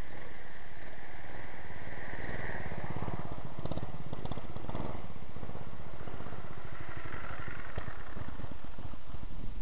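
Harbor Freight 6.5 hp Honda-clone single-cylinder engine on a minibike running steadily at part throttle, driving through a 30-series torque converter. A higher whine rises and falls twice over the steady firing.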